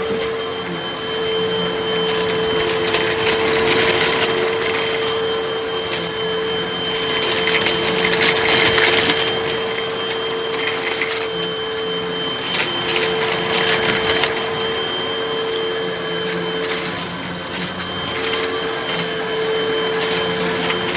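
Hoover vacuum cleaner running with a steady motor hum and whine while sucking up light, crunchy debris that crackles and rattles up through it, the crunching swelling louder several times.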